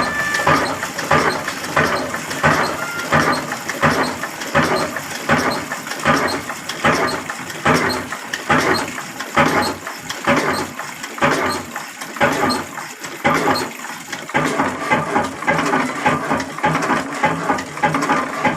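Ruston Hornsby 20 hp slow-speed diesel engine running steadily at about 360 rpm, with an even, regular beat.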